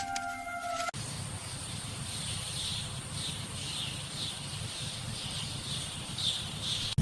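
Outdoor nature ambience: a steady high-pitched drone and a chirping call that repeats at uneven intervals, over a low rumble. A held music note is cut off about a second in.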